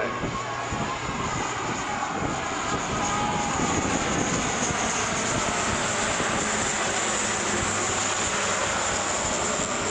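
Lockheed C-130J Hercules turboprop engines and propellers running as the aircraft flies past with gear and flaps down on approach. A steady, dense rumble with a thin high whine over it.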